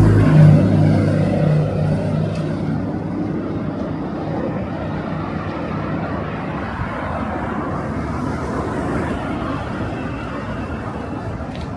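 A motor vehicle's engine passing close by, its note fading over the first two seconds, then steady city street traffic noise.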